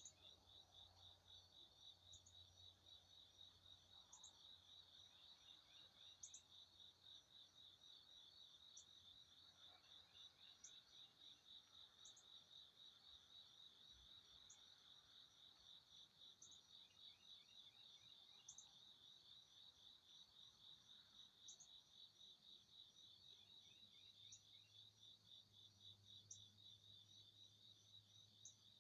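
Faint insect chorus, cricket-like: a continuous fast pulsing high trill, with short higher chirps about every two seconds.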